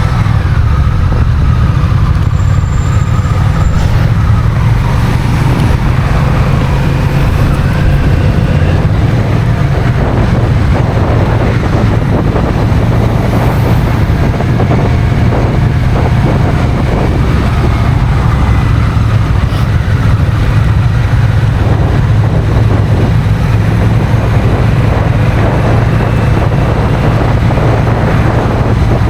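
Honda CMX1100 Rebel's parallel-twin engine running under way on the road, with steady wind and road noise on the mount camera's microphone. The engine's note rises and falls gently.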